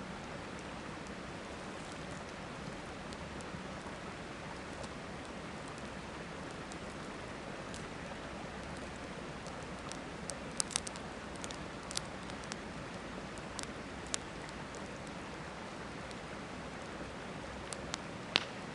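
Campfire crackling, with a handful of sharp pops, a cluster about ten seconds in and the loudest near the end, over the steady rush of a river.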